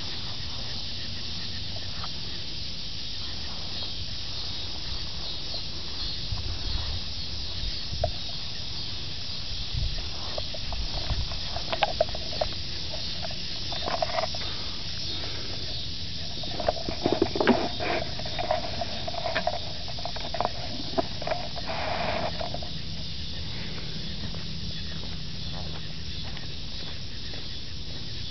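Audi A6's 2.8-litre 30-valve V6 idling steadily through a Remus exhaust with the centre resonator removed, with a constant hiss over it. A few brief clicks and a short mid-pitched tone come through in the middle.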